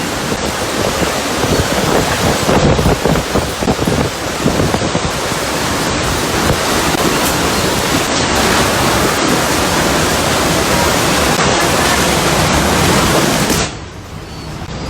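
Storm wind and heavy rain, a loud, dense rush that swells in gusts and buffets the microphone. Near the end it drops away sharply for about a second before coming back.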